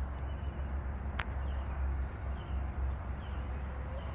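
Insect chirping in a rapid, even, high-pitched pulse over a steady low rumble, with one sharp click a little after a second in.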